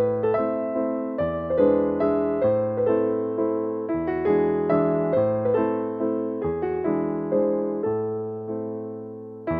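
Soft background piano music: gentle chords and melody notes played at a slow, even pace, each note struck and left to fade.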